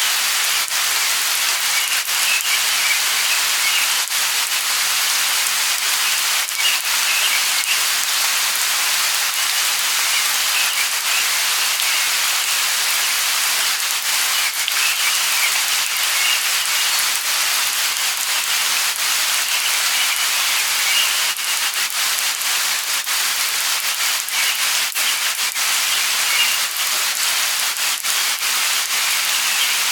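Light rain falling steadily, with many single drops ticking through the hiss. Faint bird calls come and go over it.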